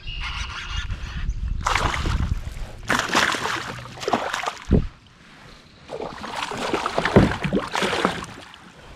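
Water splashing and sloshing at the side of a fishing kayak in irregular surges, with a couple of dull knocks on the hull, while a just-caught pike is handled.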